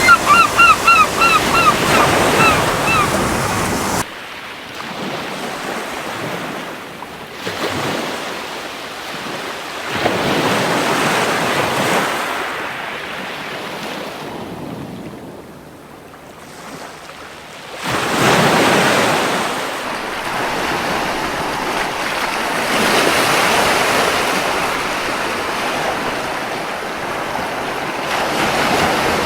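Sea waves breaking and washing up a beach in slow, repeated surges. A gull calls a quick run of about eight short notes in the first three seconds.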